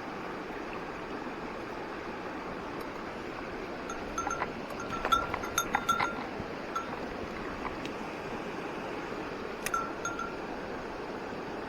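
Steady rush of a mountain stream, with a small metal bell jingling in a cluster of rings about four to six seconds in and twice more near ten seconds.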